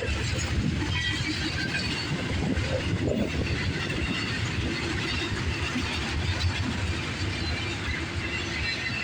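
Union Pacific double-stack intermodal cars rolling past, a steady rumble and clatter of the freight car wheels on the rails, with short high-pitched wheel squeals coming and going.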